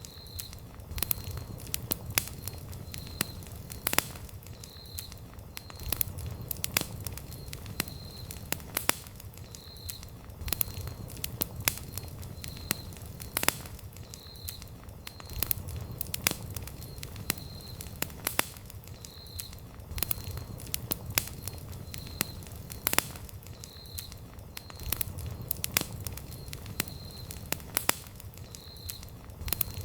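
Wood campfire crackling, with many sharp irregular pops and snaps from the burning logs over a low steady rumble of flame.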